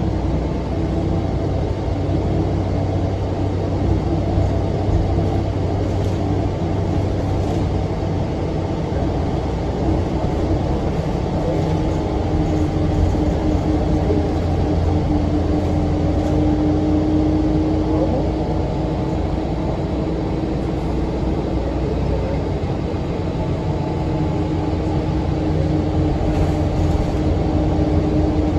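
2006 NABI 40-foot low-floor transit bus running, its Cummins ISM diesel engine and engine cooling fan making a steady low hum with a held tone that wavers slightly in pitch.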